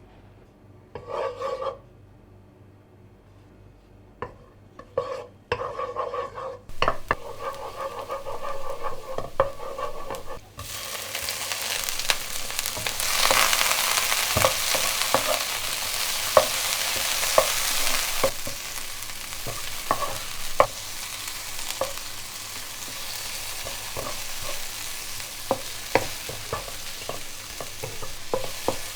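Food frying in hot oil in a pan, sizzling, with a utensil clicking and scraping against the pan as it is stirred. The sizzling turns loud about ten seconds in.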